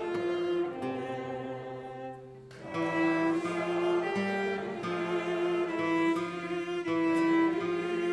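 Live instrumental music on bowed strings, held notes moving from one to the next, during the church offertory. It softens briefly about two seconds in, then comes back fuller.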